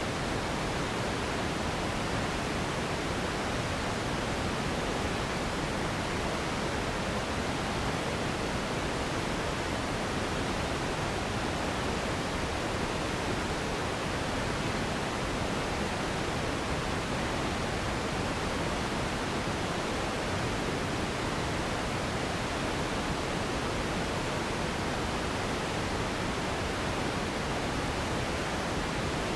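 Steady pink noise, an even, unchanging hiss that is fuller in the lows than white noise.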